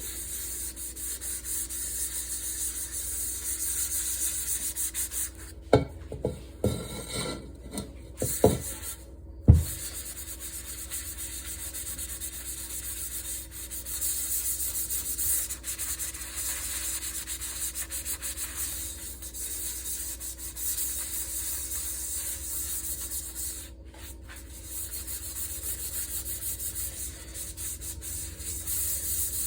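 A pan being scrubbed hard, a steady scratchy rubbing. A handful of knocks comes in the middle, the last and loudest a single clank.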